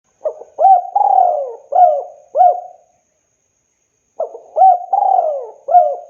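Spotted dove cooing: two phrases of about five quick, throaty coos each, with a pause of over a second between them.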